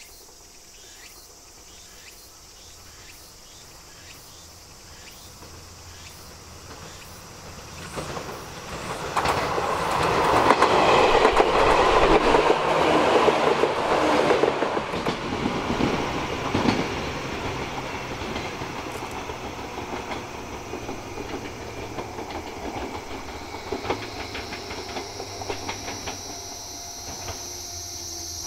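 Chichibu Railway 7500 series electric train (ex-Tokyu 8090 series) passing close by. Its rumble builds gradually and is loudest from about 9 to 16 seconds in, with a rhythmic clickety-clack of the wheels over the rail joints. It then fades to a lower steady rumble.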